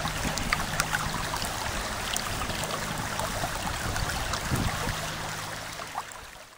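Murray River floodwater flowing and trickling, a steady wash of water with small splashes and a faint low hum underneath, fading out at the end.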